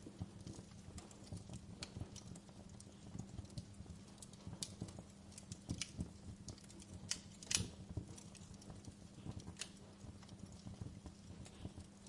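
Wood fire crackling: irregular sharp pops and snaps over a steady low rumble, the loudest pop about seven and a half seconds in.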